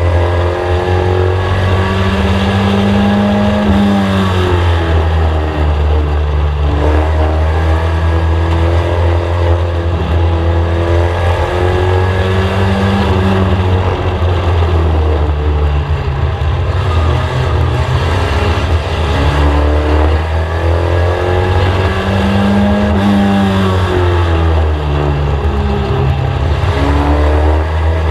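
In-car sound of a VW Scirocco race car lapping a short oval: the engine's pitch climbs and falls in a repeating cycle about every ten seconds, over a heavy, steady low rumble.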